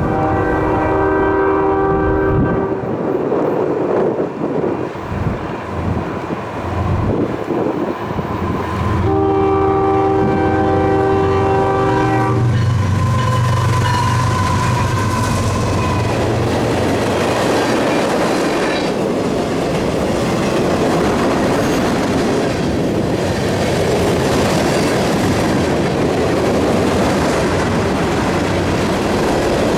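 Diesel locomotive's multi-chime air horn sounds twice, each a sustained chord of a few seconds. The locomotive then passes with a heavy engine rumble, followed by a steady rolling clatter of train cars going by.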